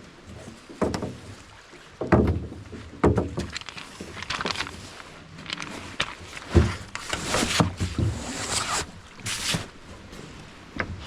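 Camp gear being handled and packed up: irregular knocks, clunks and scrapes, a dozen or so, some with a dull low thump.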